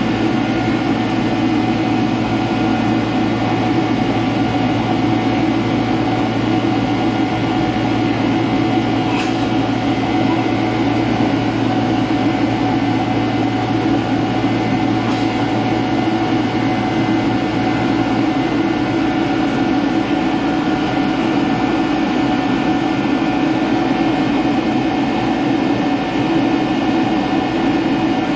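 Boeing 767-300ER jet engines running, heard inside the cabin as a steady loud rush with several constant whining tones.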